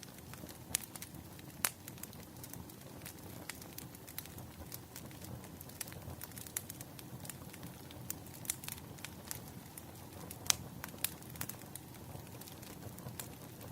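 Wood fire crackling: irregular sharp pops and snaps over a low steady hiss of burning logs, with a few louder pops.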